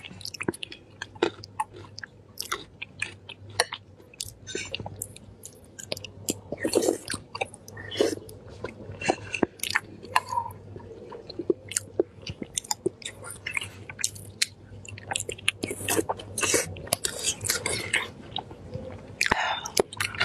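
A woman chewing and biting food, with many irregular mouth clicks and smacks, over a low steady hum.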